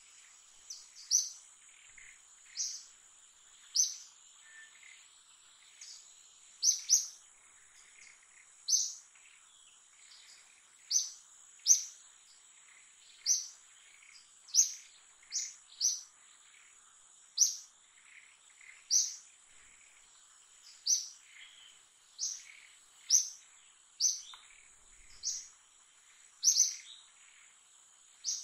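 A bird repeating a short, sharp, high chirp roughly once a second at irregular intervals, over a steady high-pitched insect drone, with fainter chirps from other birds lower down.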